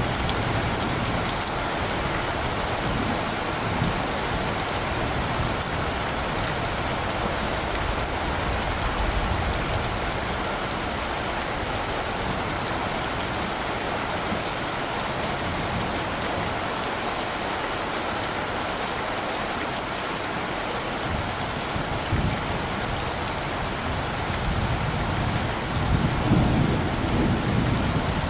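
Steady rain falling, with a low rumble of light thunder about two seconds before the end.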